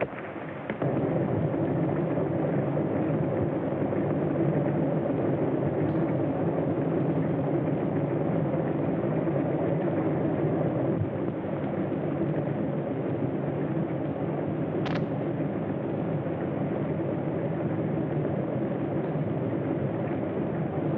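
Steady, loud mechanical rumble of a running vehicle in an early sound-film soundtrack, starting abruptly under a second in, with one sharp click about fifteen seconds in.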